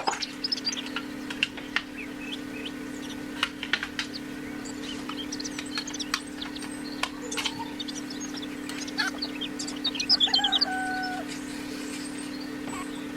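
Scattered short bird chirps and calls, with a louder held call about ten seconds in, over a steady low hum and a few sharp clicks.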